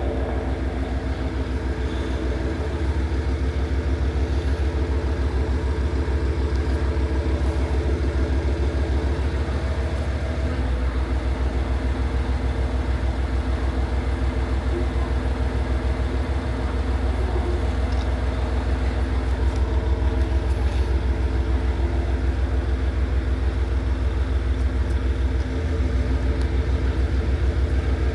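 KiHa 40 diesel railcar's engine running steadily with a deep hum, its note shifting slightly a few times.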